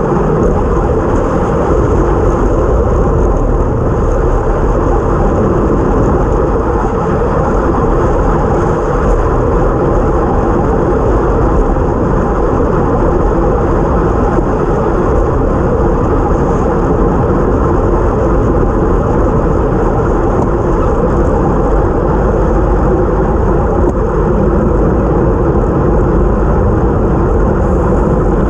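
Steady rush of wind over a bike-mounted action camera's microphone at time-trial speed, mixed with tyre noise on a wet road.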